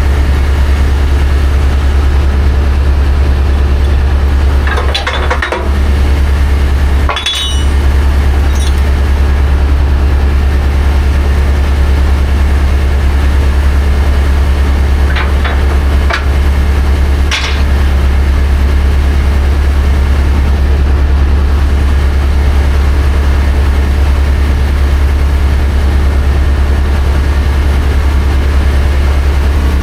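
Heavy diesel engine running steadily with a loud, unchanging low drone. A few brief knocks or clinks come through over it, about 5, 7, 16 and 17 seconds in.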